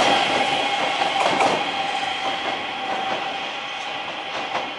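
Electric multiple-unit passenger train passing and pulling away, fading steadily. A steady whine sits over the running noise, with a few clicks of wheels over rail joints.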